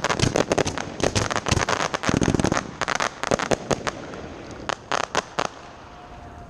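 1.4G consumer fireworks going off in a dense run of sharp crackling pops, which thin out and stop about five and a half seconds in.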